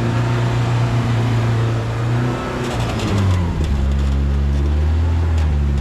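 Polaris RZR Pro R side-by-side's four-cylinder engine running under load on a trail, its pitch dropping about three seconds in as it comes off the throttle, then holding steady lower. A few sharp knocks around the pitch drop and near the end.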